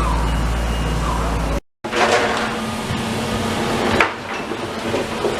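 Demolition work: a steady low engine rumble, then after a short break a series of clattering impacts, with one sharp bang about four seconds in, as rubble and metal are knocked about.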